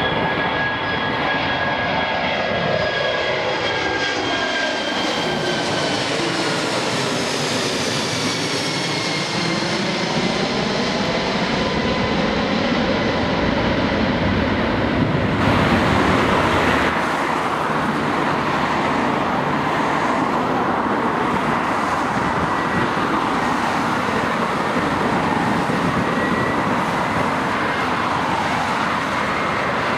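Airbus A340 four-engined jet airliner passing close by, its engine whine gliding slowly down in pitch over a loud rush of jet noise. It is loudest about halfway through.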